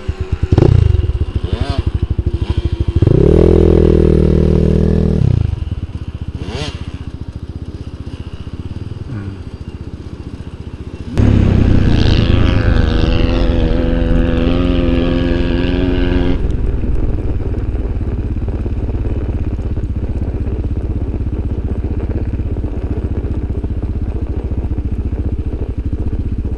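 A small vehicle engine revving and running: a short burst of revs about three seconds in, a longer burst held for about five seconds from around eleven seconds in, then running steadily.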